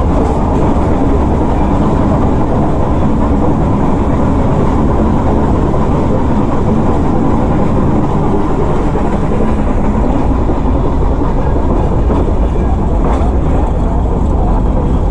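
Nilgiri Mountain Railway train running on the track: a loud, steady rumble and rattle of the coach and wheels.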